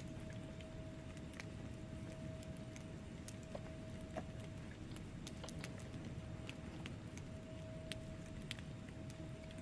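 Wood fire in a fireplace crackling: irregular sharp pops and snaps, a few a second, over a steady low rumble of burning logs, with a faint steady whistle underneath.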